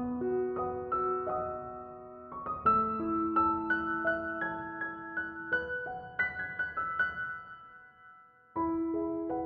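Background piano music, a gentle melody of plucked-sounding notes with held bass tones; it fades out near the end and starts again just before the close.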